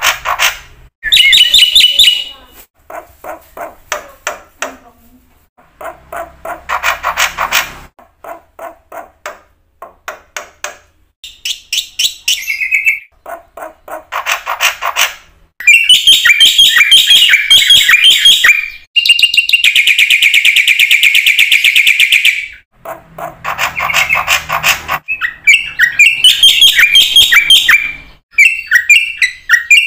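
Black-winged myna (jalak putih) singing loudly in full song, with bouts of rapid chattering and clicking notes separated by short pauses and one long harsh rattle about two-thirds of the way through.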